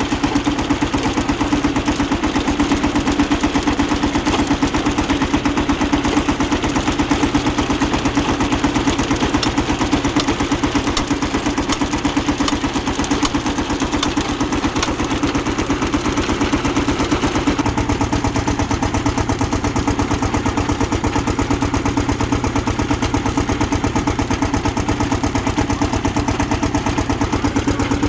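Tractor engine running steadily with a fast, even pulse, its note shifting slightly about two-thirds of the way through.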